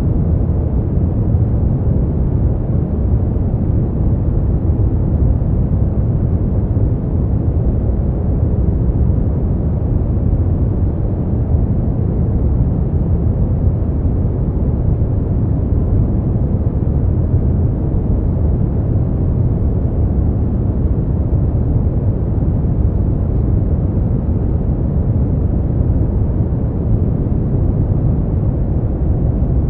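Steady, unchanging noise played for sleep and relaxation, deep and rumbly with little treble, like a dark rushing hiss.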